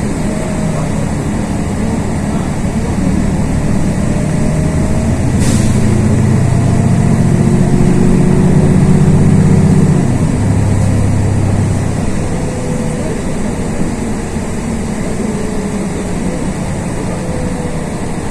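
Inside a LiAZ 6213.22 articulated city bus on the move: the diesel engine and drivetrain running, pulling harder and louder for a few seconds in the middle and then easing off, with a faint gliding whine from the transmission or tyres. A short hiss sounds about five seconds in.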